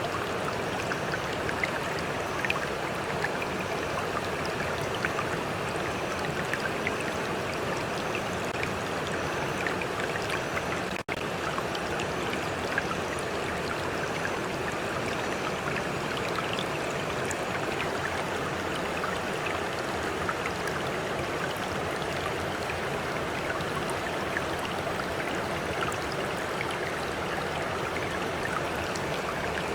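Stream water flowing and splashing steadily over rocks, with small droplet splashes scattered through it. The sound drops out for an instant about eleven seconds in.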